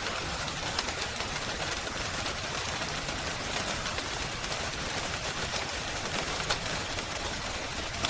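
Steady hiss of rain with scattered small crackles and ticks, a rain-and-crackling-fireplace ambience.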